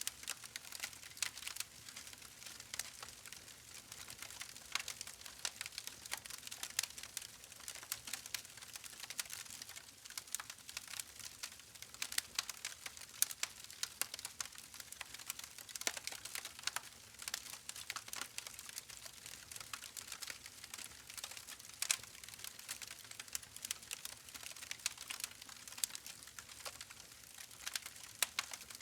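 Campfire burning: wood crackling, with many quick irregular snaps and pops over a faint hiss.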